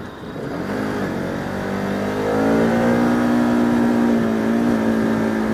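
Bajaj Pulsar RS200's single-cylinder engine accelerating hard, its revs climbing from about a second in and then held high and steady, with wind rushing past a helmet microphone. The engine is running up toward its rev limiter, which it reaches quickly.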